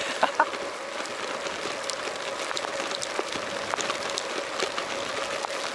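Rain falling, an even hiss with many small scattered ticks of drops striking close by, under a faint steady hum.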